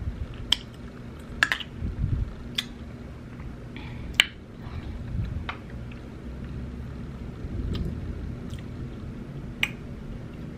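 Close-miked mouth sounds of a person eating a spoonful of baked beans: wet chewing with sharp lip smacks, about six in all, spread every second or two.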